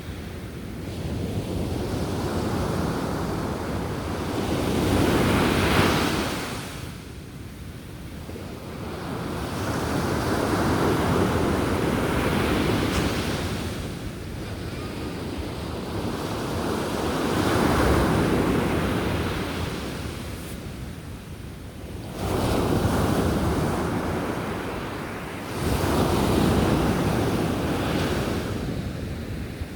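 Sea waves breaking and washing up on the beach, surging about every five or six seconds, one breaker after another, with a sharper crash about two-thirds of the way in.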